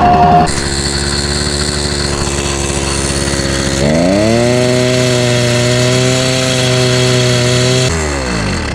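Motorized bicycle's small engine running steadily, revving up about four seconds in and holding the higher speed, then winding down and stopping near the end.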